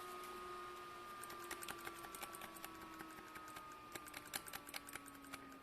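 Computer keyboard keys being tapped in quick, irregular clicks, several a second, while a faint steady whine slowly drops in pitch. The keypresses are a test of whether the freshly BIOS-flashed motherboard responds, and the keyboard light stays off.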